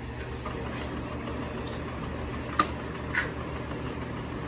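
Brother DCP-7065 laser copier running with a steady low hum, and two sharp clicks about half a second apart past the middle.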